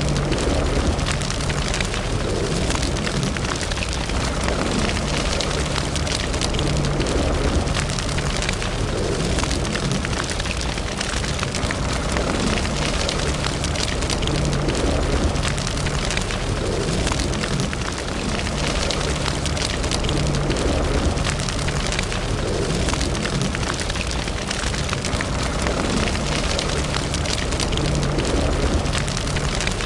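Wood fire burning in a fireplace, crackling and popping continuously over a low, steady rumble.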